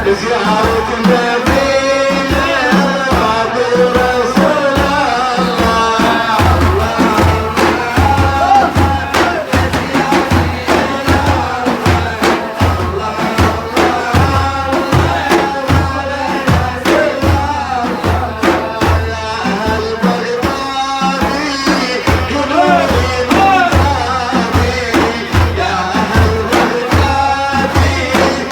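Sufi devotional chanting: a male voice singing a praise song over drums beating a steady rhythm, the deep drum strokes coming in much more strongly about six seconds in.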